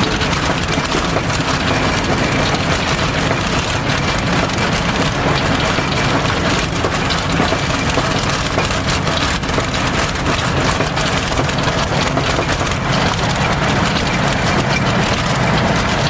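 Light aircraft's piston engine running steadily, with rushing airflow noise, as heard inside the cockpit in flight.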